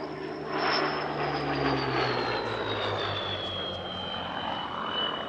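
Supermarine Spitfire Mk.Ia's Merlin V12 engine flying past, a steady drone with a high whine that slowly falls in pitch as it goes by.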